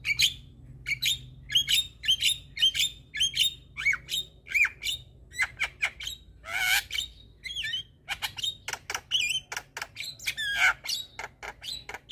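Javan myna (jalak kebo) calling: a rapid run of short sharp notes and bending whistles, with one longer harsh squawk about halfway through and a faster chatter of notes after it.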